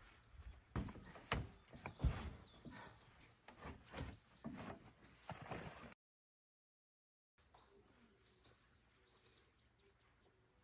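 A bird chirping, a series of short high notes repeated about every half second, with several sharp knocks or clatters in the first half. The sound drops out completely for over a second about six seconds in, then the chirping resumes.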